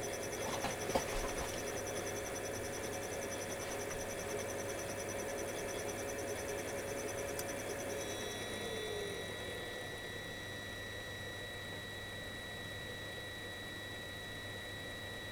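Ship's engine-room machinery running steadily with a hum and hiss. About eight seconds in, one tone slides down and fades out while a thin high whine comes in.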